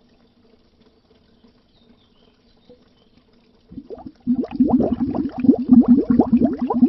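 Underwater bubbles: after a few seconds of near quiet with only a faint low hum, a dense stream of bubbling starts about four seconds in, each bubble a short blip rising in pitch.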